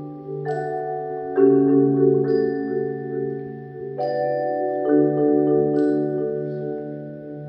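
Percussion ensemble playing mallet keyboard instruments such as vibraphone and marimba: ringing, sustained chords with a gently pulsing low line, new chords struck every second or so.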